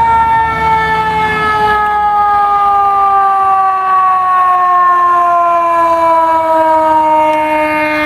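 Fire truck siren sounding one long wail that falls slowly and steadily in pitch, with truck engine rumble underneath at first; a second, higher siren tone joins near the end.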